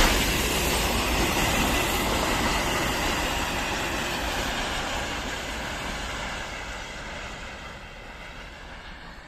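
Freight train rolling past on the rails, its wagon wheels rumbling with a faint high whine, the sound fading steadily as the train moves away.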